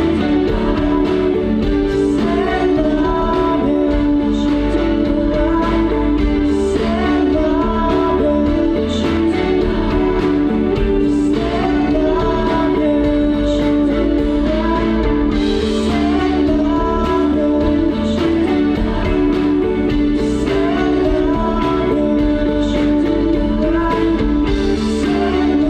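A live band performing a song, with a singer's voice over guitar and the rest of the band, steady and loud throughout.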